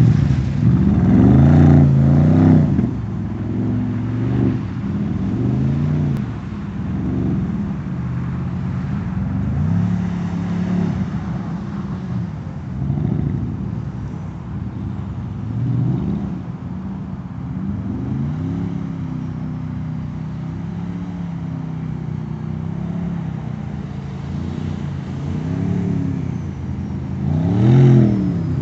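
Porsche Cayenne engine revving up and down over and over as the SUV drifts on snow, each burst of throttle rising in pitch and then falling away. It is loudest in the first couple of seconds and again near the end as the car swings close.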